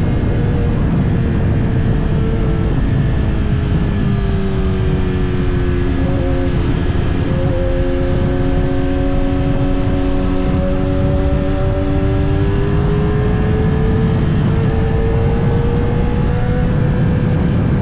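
Kawasaki ZX-10R inline-four engine under way with heavy wind rushing over the microphone. The engine note drops about four seconds in, holds steady, then climbs gradually as the bike picks up speed again.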